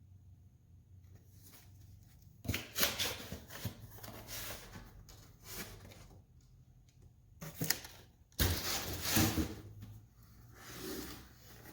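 Rustling and handling of packaging while a box is unpacked, in several bursts of crinkling and scraping with short pauses between them.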